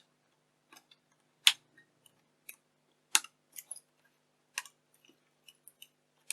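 A tool prying at a soldered-on metal shielding can on a camcorder circuit board: scattered sharp clicks and snaps, the three loudest about a second and a half apart, among fainter ticks.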